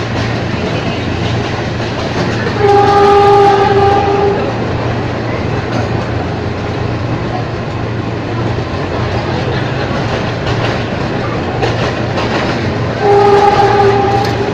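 Ex-JR 203 series electric multiple unit running, a steady rumble with wheel clatter over the rail joints. Its horn sounds twice, one steady blast of about a second and a half a few seconds in, and a shorter one near the end.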